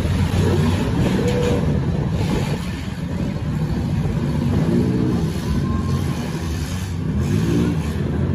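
Several demolition derby cars' engines running and revving together, their pitch rising and falling repeatedly as the drivers gun them to ram each other.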